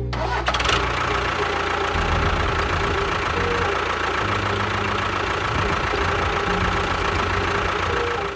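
A small motor running steadily with a rough, noisy rattle.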